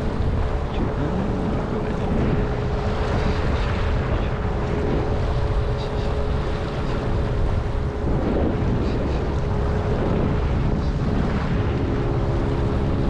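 Mercury 8 hp outboard motor running at a steady pitch, driving a small inflatable boat, with wind buffeting the microphone.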